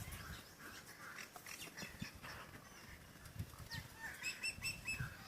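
Birds calling outdoors: scattered short calls, then a quick run of repeated chirping notes about four seconds in.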